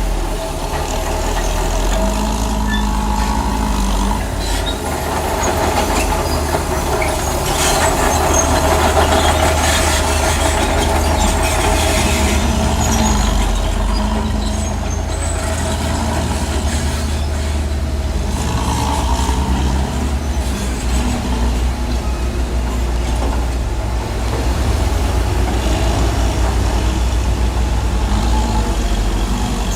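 Bulldozer's heavy diesel engine running steadily, a continuous low drone with no pauses.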